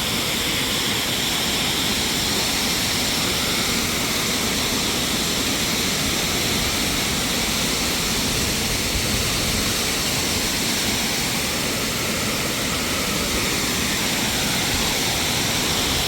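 A waterfall pouring steadily: a constant, even rush of falling water.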